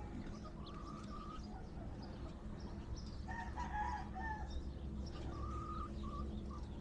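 Roosters crowing faintly in the distance, about three calls in turn, over a steady low hum.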